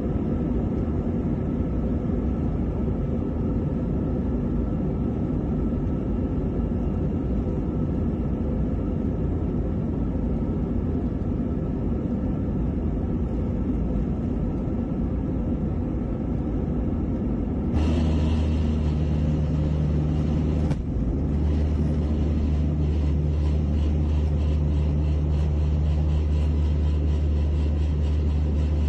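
Steady rumble of a jet airliner's engines. About 18 seconds in, the sound changes abruptly to a louder, deeper steady drone.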